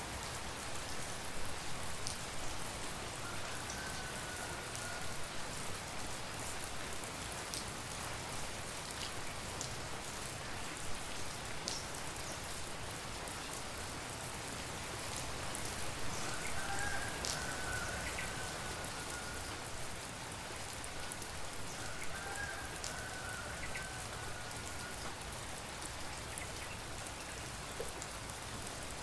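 Steady tropical rain falling, with individual drops ticking on nearby surfaces. A faint wavering higher tone comes and goes three times.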